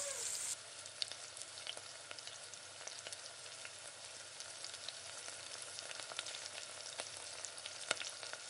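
Turmeric-coated paneer cubes sizzling in hot oil in a stainless steel pan, with scattered pops and crackles as a silicone spatula turns them. The sizzle turns quieter about half a second in.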